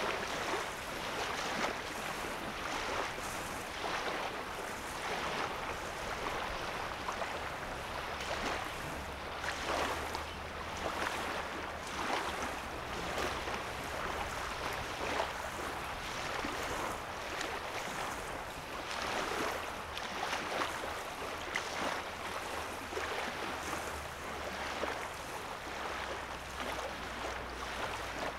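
Small waves lapping on a calm lake's sandy shoreline, soft splashes coming about every second, with a faint steady low hum underneath.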